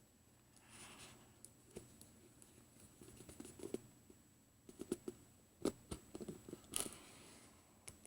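Plastic shrink wrap being cut with a straight blade and handled on a cardboard card-game box: scattered light taps and clicks, with two brief crinkly swishes of plastic, one about a second in and one near the end.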